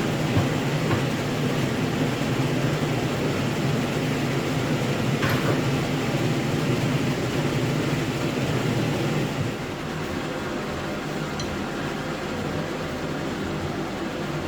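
Steady mechanical hum and hiss from a running machine, dropping a little in level about nine and a half seconds in.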